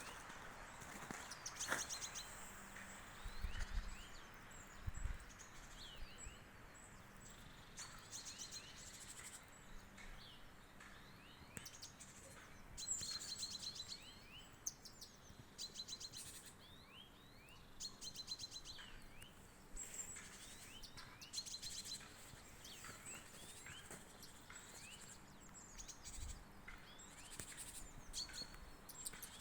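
Songbirds singing: short, high trilled phrases and little chirps repeating every few seconds, with a few faint low thumps.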